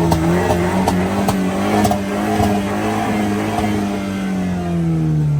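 Turbocharged car engine pulling under throttle: its pitch climbs a little, holds, then eases down near the end as the throttle comes off. A few sharp clicks are heard over it.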